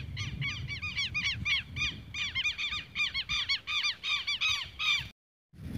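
A bird calling in a fast run of harsh, arched chirps, several a second, over a low rumble; the sound cuts off suddenly about five seconds in.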